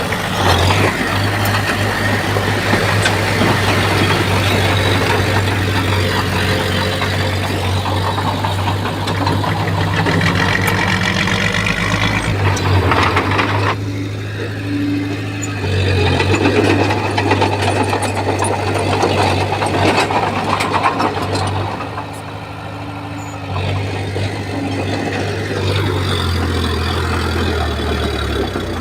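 Komatsu bulldozer's diesel engine running hard while it pushes soil and stone, its level easing off briefly twice, with short knocks and clanks throughout.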